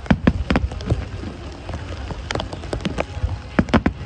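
Heavy rain with large drops hitting a surface close to the microphone in sharp, irregular clicks, over a low steady rumble.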